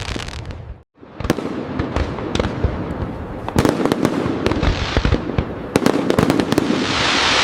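Fireworks display: a dense run of sharp bangs and crackling, with a brief drop-out about a second in and a hissing crackle swelling near the end.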